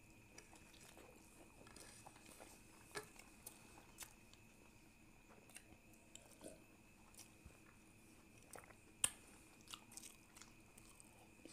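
Faint chewing of boiled eggs: scattered small mouth clicks and smacks, with one sharper click about nine seconds in, over a faint steady high-pitched hum.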